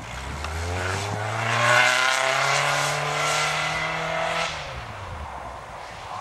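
Opel Omega's engine pulling hard, its pitch climbing steadily under acceleration, then dropping away about four and a half seconds in as the driver lifts off.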